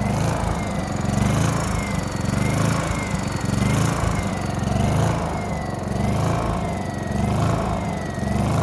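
Small portable generator's engine running steadily after a carburetor rebuild and spark plug cleaning, with a faint whine that wavers up and down about once a second.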